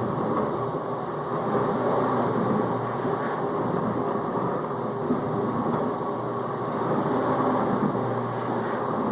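Whirlpool dishwasher in the circulation phase of its final rinse: the wash pump motor hums steadily while it sprays water around the tub, a constant rushing and splashing.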